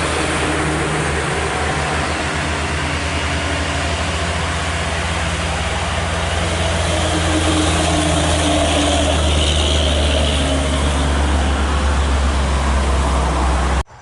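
Heavy vehicle's engine running with a steady low drone and road noise as it works along the road, growing a little louder about halfway through, then cutting off abruptly near the end.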